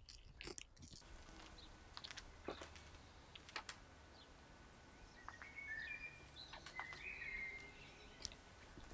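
Quiet outdoor background with a few faint bird chirps past the middle and scattered soft clicks.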